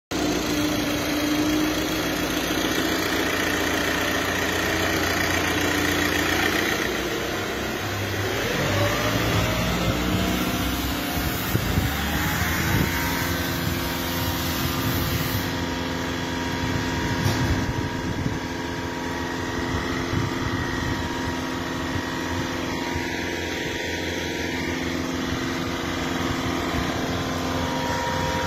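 Skoda Fabia diesel engine running steadily. About a third of the way in, its pitch rises over a few seconds, then holds at the higher speed.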